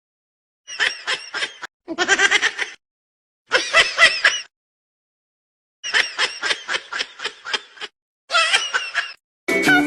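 Rapid, pulsed laughter in five short bursts, each cut off abruptly into dead silence.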